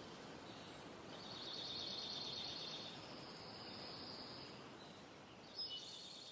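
Faint outdoor background noise with a high, rapidly pulsing trill that starts about a second in and fades out after a few seconds, then a short chirp near the end.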